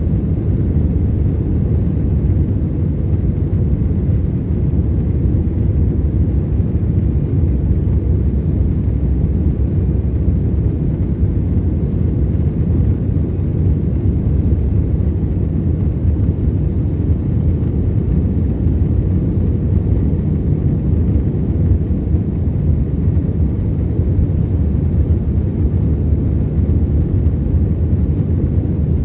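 Cabin noise of an Airbus A321-211 climbing after takeoff: its two CFM56 engines running with airflow around the fuselage, heard inside the passenger cabin as a steady, low, even drone.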